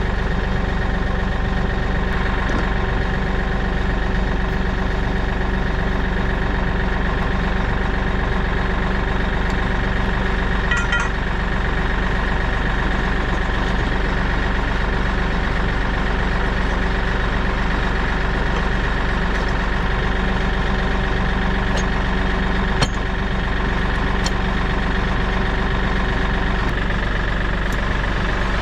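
Tractor engine idling steadily, with a couple of faint clicks partway through.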